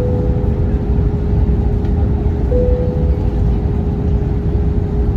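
Airliner cabin noise in flight: a steady low roar with a constant hum. Two short fading tones sound, one at the start and one about two and a half seconds later.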